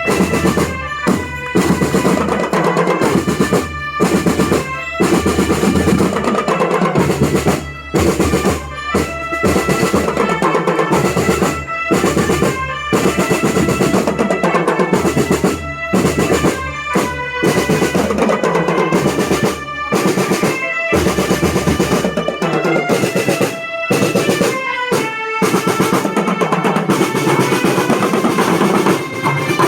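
School marching drum band playing: snare-drum rolls and bass drums beating out a rhythm with frequent short breaks, and a high melody line held over the percussion.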